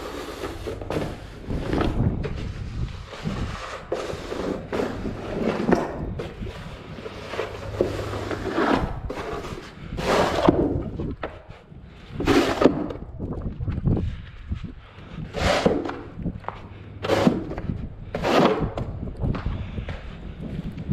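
Snow plowing: a steady low engine hum with irregular scrapes and thumps every second or two.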